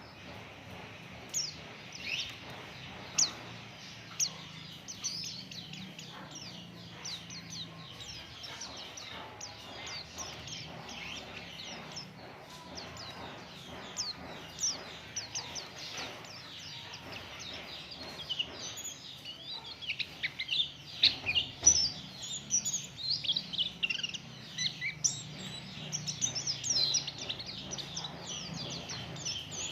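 Pleci (white-eye) birdsong: rapid, high, twittering chirps, sparse at first and becoming a dense, louder run of song from about twenty seconds in.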